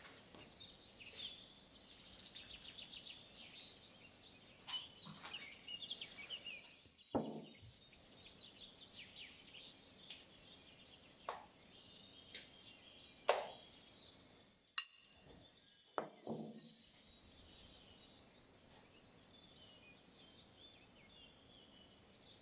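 Faint bird chirps and quick trills, with a handful of sharp knocks and clicks in the middle.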